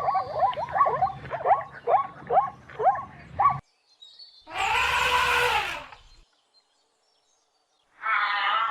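Animal calls in separate short clips. First comes a run of quick, short, falling calls, about three a second, which cuts off abruptly. After a pause there is a single longer, harsh call of about a second and a half, and another call begins near the end.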